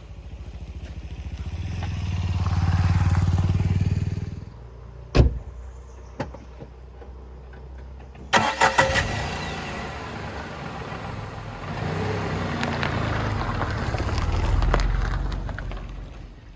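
A motor vehicle's engine running, swelling to a peak and stopping about four seconds in. A single sharp knock comes about a second later, a quick cluster of clicks follows near the middle, and then engine sound rises and falls again before fading near the end.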